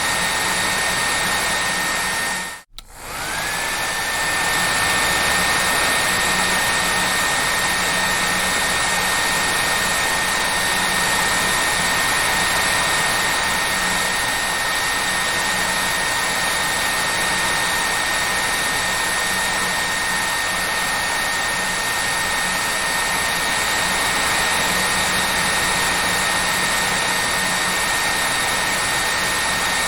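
Hair dryer running steadily: a full rush of air with a thin, high motor whine over it. About three seconds in the sound cuts out for a split second, and the whine then slides back up to its pitch.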